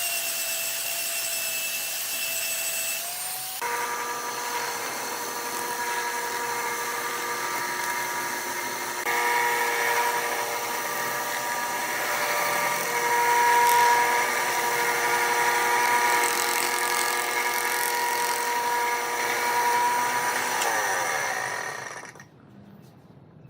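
Electric wood lathe running with a steady whine that changes character a few seconds in, then is switched off and winds down, its pitch falling until it stops near the end.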